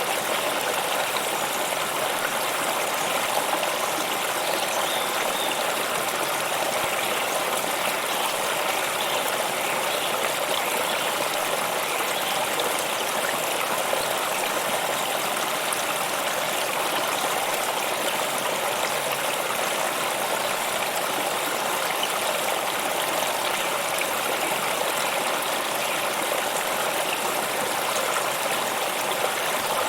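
Stream water running steadily over rocks, a constant even rush with no change.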